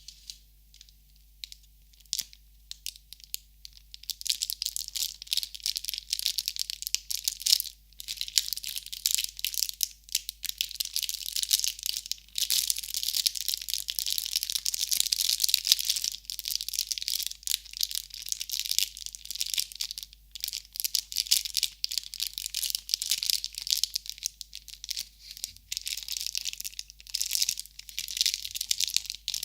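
Close-up crinkling and crackling of crinkly material being scrunched by hand. A few scattered clicks come first, then a dense crackle in spells broken by short pauses.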